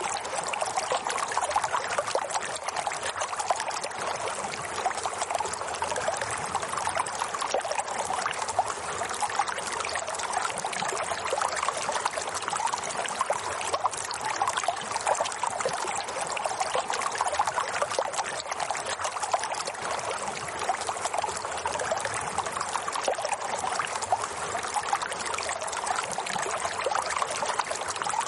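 Running water trickling and splashing steadily, with no breaks or changes.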